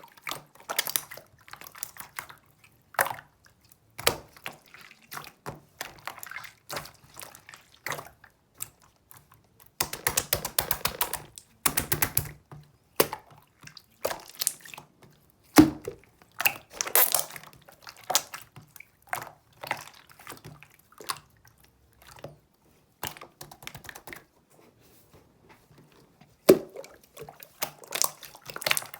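Clear jelly slime being squeezed and poked by hand: wet squelches, sticky clicks and small crackling pops, with a dense run of crackling about ten seconds in.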